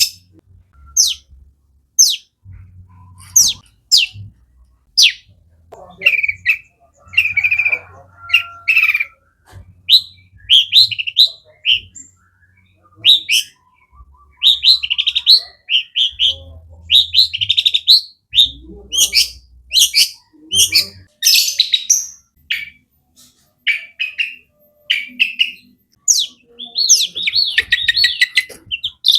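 Long-tailed shrike (cendet) singing loudly: a run of sharp, quickly falling high notes mixed with harsher chattering phrases and mimicked notes, becoming a dense rapid stream near the end.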